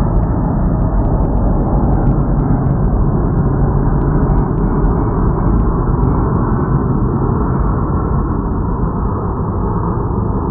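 Airbus A321-100 jet airliner on final approach passing low, its engine noise loud and steady, easing slightly over the last couple of seconds.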